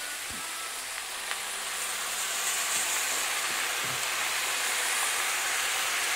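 Pork, onion and fried tofu sizzling in a frying pan, the sizzle growing louder about two seconds in as a soy-sauce seasoning mix is poured over them.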